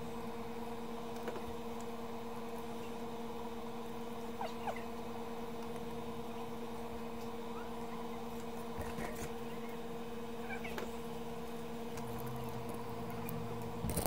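A steady electrical hum on one unchanging set of pitches, with a few faint light clicks from a small circuit board being handled.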